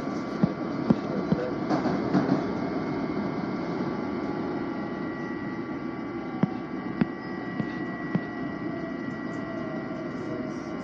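LIRR M7 electric train car running, heard from inside: a steady rumble with a hum and several high steady tones over it. Sharp clicks come now and then, several in the first second and a half and a few more around six to eight seconds in.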